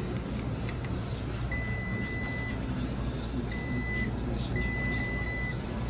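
Three electronic beeps from a laundromat machine, the first and last about a second long and the middle one shorter, over the steady low hum of machines running.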